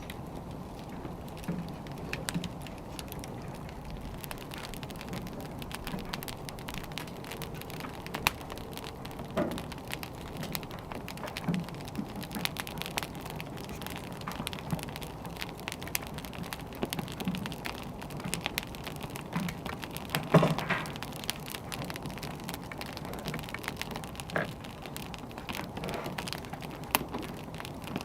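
Wood fire burning: a steady hiss with many small crackles and scattered louder pops, the loudest about twenty seconds in.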